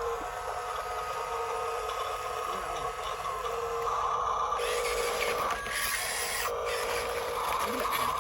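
Radio-controlled dump truck's small electric motor and gearbox whining steadily, with the pitch and level shifting a little a few times.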